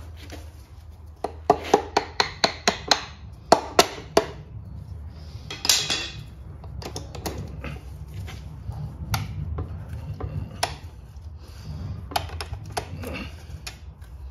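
Metal tools tapping and clinking on the connecting rod and big-end bearing cap of a Holden grey motor being torn down. A quick run of about six sharp taps comes a couple of seconds in and two louder strikes follow, then scattered clinks, over a steady low hum.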